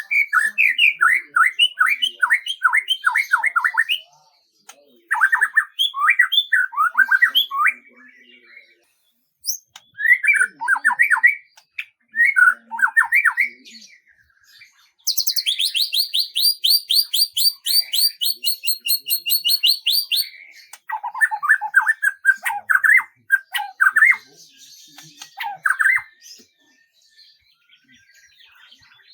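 Songbirds singing in phrases of quick down-slurred notes, broken by short pauses. From about fifteen to twenty seconds in comes a fast, high trill of evenly repeated notes.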